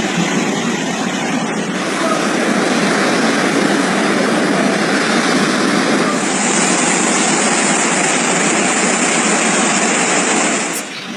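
Fast-flowing floodwater rushing loudly and steadily, with the sound changing abruptly twice, about two seconds in and near the end.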